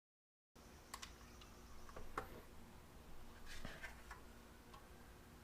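Faint handling sounds: a few sharp light clicks and small knocks, about one, two and three and a half seconds in, over faint background hum.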